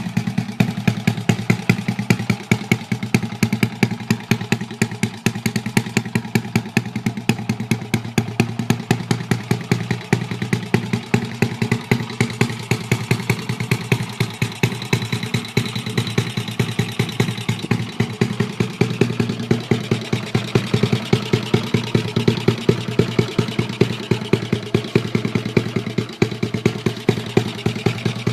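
Honda Chaly minibike's Wave 100 single-cylinder four-stroke engine idling with a steady, even beat; the seller calls it tight and steady at idle.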